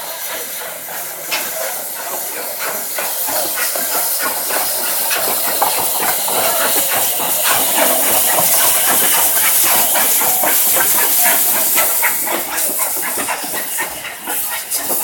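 Steam locomotive No. 850 Lord Nelson pulling away, with a loud hiss of steam over a fast run of beats. It grows louder to a peak a little past halfway, then eases near the end as it passes.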